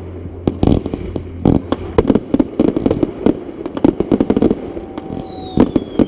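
Fireworks display: a rapid, uneven run of sharp bangs and crackling shell bursts, several a second, with a high whistle falling in pitch near the end.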